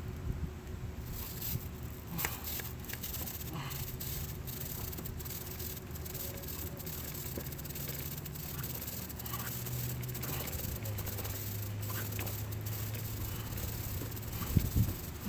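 Aerosol chain degreaser hissing in sprays onto a motorcycle chain, with scattered light clicks and rattles from the chain as the raised rear wheel is turned through by hand.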